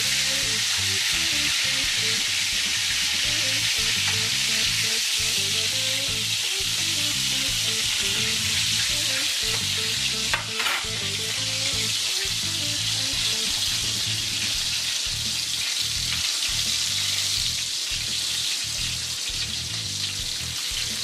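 Battered pork tenderloin deep-frying in hot oil: a steady, loud sizzle of bubbling grease, with one brief click about halfway through.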